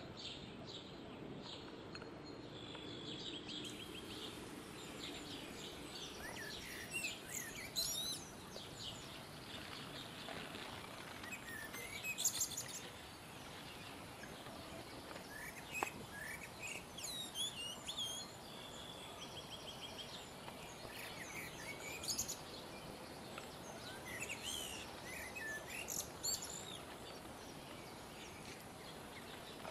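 Songbirds singing and calling, with many short chirps and quick up-and-down trills coming one after another, over a steady outdoor background hiss.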